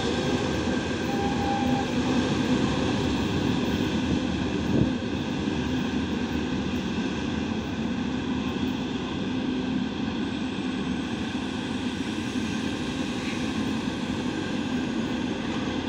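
Steady rumble and hum of electric trains: the wagons of a freight train rolling away, and a VL10 electric locomotive at the head of a passenger train approaching slowly. A single knock comes about five seconds in.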